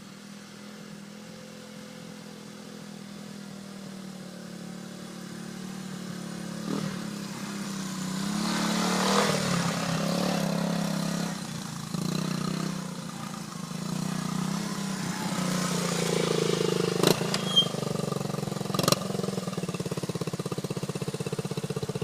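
The small single-cylinder four-stroke engine of a 1977 Honda CT90 trail bike runs as the bike is ridden. It grows steadily louder over the first several seconds, and its engine speed rises and falls in the middle. A few sharp clicks come near the end.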